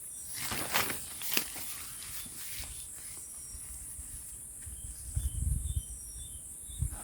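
Steady high-pitched insect drone with short repeated chirps in the second half, over low rustling and muffled knocks.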